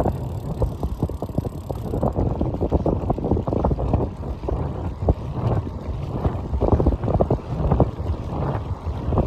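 Wind buffeting the microphone with the low rumble of a moving bike ride, gusting unevenly throughout.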